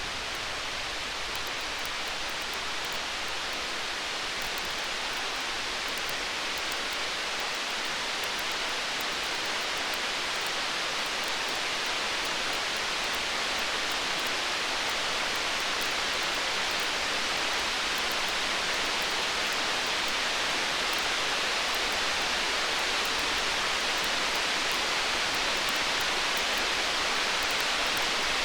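Storm-night and campfire ambience: a steady, even hiss with faint crackling ticks from the fire, slowly getting louder. No thunderclap in this stretch.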